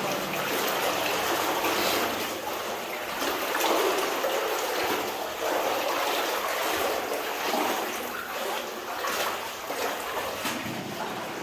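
Running water of a stream rushing steadily, a noisy hiss that swells and eases a little.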